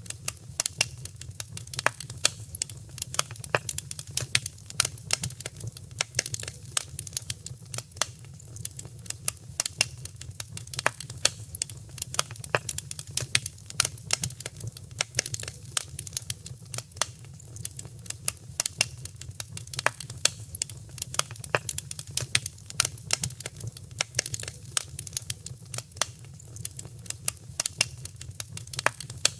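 Wood fire crackling in a fireplace: many irregular sharp pops and snaps, several a second, over a steady low rumble of the burning fire.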